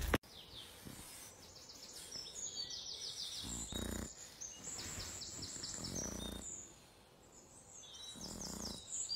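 Faint birdsong: songbirds singing short, rapid trilled phrases again and again, with a few soft rustles between them.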